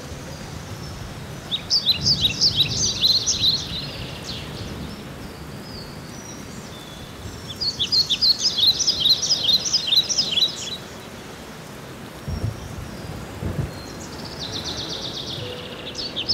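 A bird singing in repeated bursts of rapid high chirps, each about two to three seconds long, three times, over the steady sizzle of onions frying in the pan.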